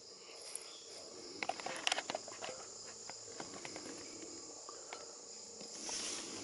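Faint, steady high-pitched insect chirring, with scattered light clicks and taps, most of them in the first half.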